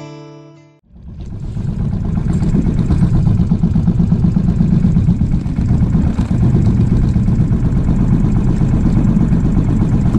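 Royal Enfield Bullet motorcycle's single-cylinder engine running with a steady, fast thumping beat. A guitar tune fades out in the first second.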